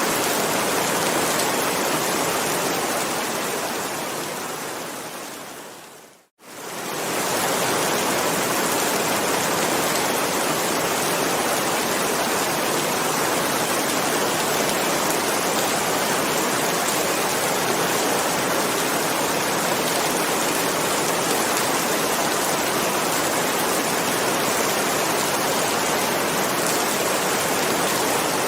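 Steady heavy rain, an even hiss. About six seconds in it fades away to near silence and quickly swells back to full strength.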